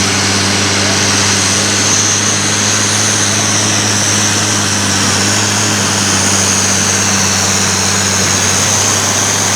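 Pulling tractor's turbocharged Continental V12 engine idling at a steady speed with a deep, even hum.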